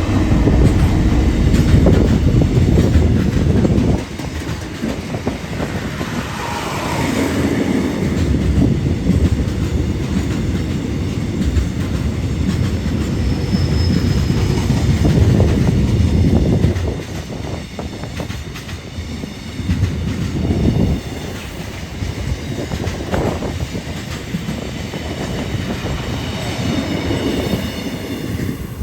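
A train running past on rails: a heavy rumble of wheels with repeated clacks over the rail joints, loudest in the first few seconds and easing off later, with a faint high wheel squeal near the end.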